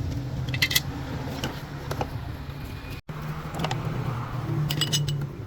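Steady low machine hum with scattered sharp metallic clinks and ticks, like tools striking metal parts in a workshop. The sound cuts out for an instant about three seconds in.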